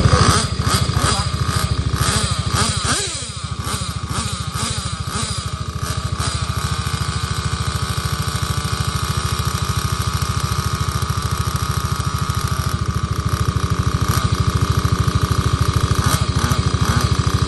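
Small nitro engine of a 1/8-scale RC car running with a fast, steady buzz. Engine pitch rises and falls in the first few seconds as a car revs, then settles into a steady run.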